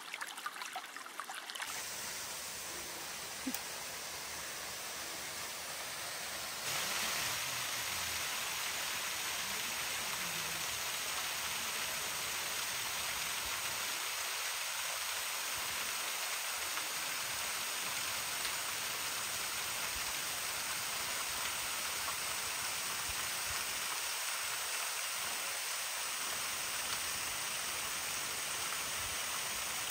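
Steady rush of flowing water from a stream, stepping up in level about seven seconds in and then holding even.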